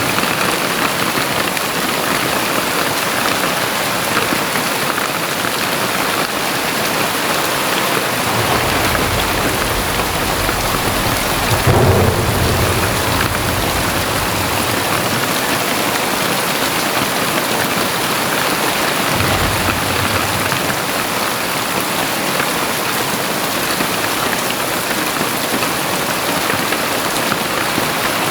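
Very heavy rain pouring steadily, a dense even hiss. A deep low rumble swells in about a third of the way through, peaking near the middle, and comes back in the second half.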